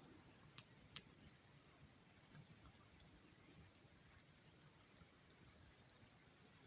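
Faint wood campfire crackling: a few sharp pops over a low hush, two close together near the start and one more a few seconds later.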